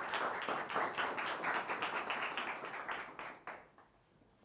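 Audience applauding, a small crowd's many overlapping claps, dying away about three and a half seconds in.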